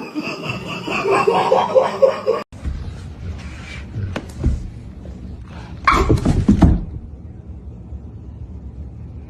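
Human laughter for the first couple of seconds, then a sudden cut to a quieter stretch with a few short sounds.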